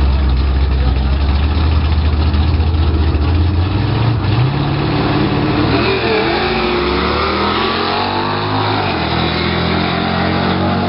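Drag-racing car engine idling with a low rumble at the starting line, then revving: about four seconds in the pitch climbs, and it sweeps up and down for several seconds before holding steady again.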